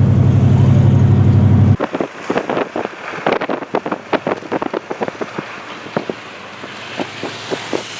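A vehicle's engine running with a steady low drone, cut off abruptly about two seconds in; after that, irregular crunching clicks and crackles over a light hiss.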